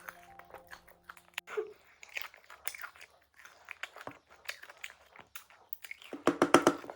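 A person eating pork leg close to the microphone: wet chewing and biting clicks, with a quick run of loud crunchy chews near the end.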